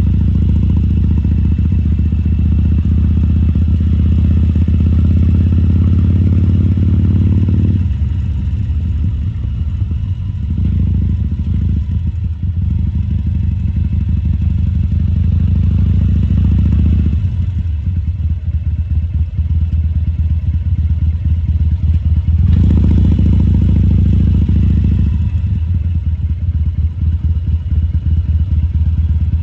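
2014 Harley-Davidson Sportster 1200 Custom's air-cooled V-twin running at low speed. Its note falls back three times as the throttle is eased off, and picks up again in between.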